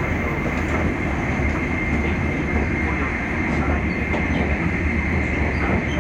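Cabin noise inside an E5 series Shinkansen train running at speed: a steady deep rumble with a thin, steady high whine above it.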